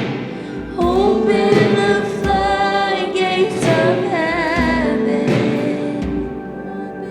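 Worship music: a singer holds long notes, wavering in vibrato about halfway through, over a band's sustained backing and bass.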